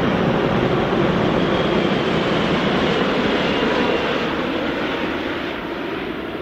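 Jet airliner engine noise, a loud, even rush that starts to fade about four seconds in as the aircraft moves away.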